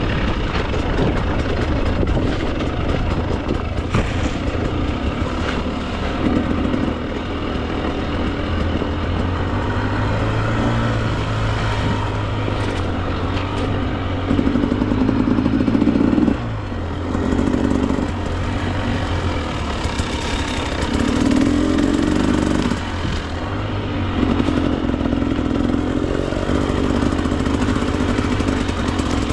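Two-stroke Husqvarna TE 300 dirt bike engine running under constantly changing throttle, the note swelling and easing in short pulls, with a sudden drop in level about sixteen seconds in before it picks up again. A couple of sharp knocks sound in the first several seconds.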